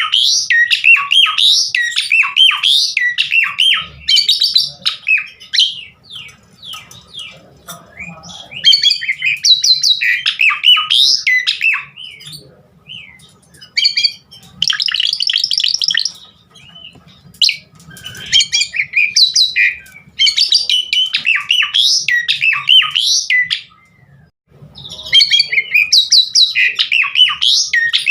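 Asian pied starling (jalak suren) singing a loud, varied song of rapid whistles, chatters and squawky notes. The song comes in bursts of a few seconds with short pauses between.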